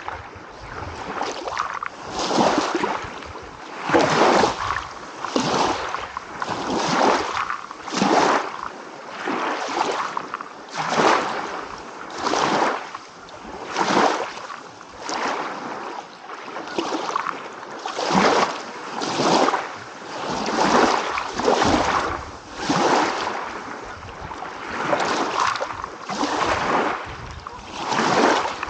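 Small waves lapping and splashing over and over, one wash of water about every second or so.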